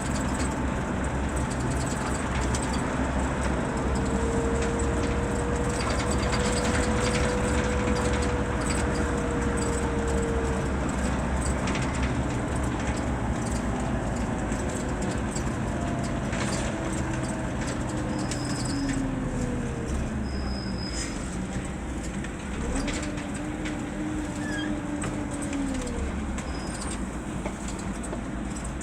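Scania K 320 bus on the move, its diesel engine running with a steady drone. A fainter whine rises and falls slowly in pitch as the bus changes speed.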